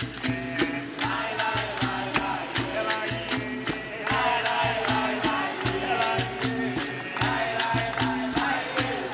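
Capoeira roda music: berimbau and hand percussion keeping a steady rhythm of sharp strikes under a group singing together.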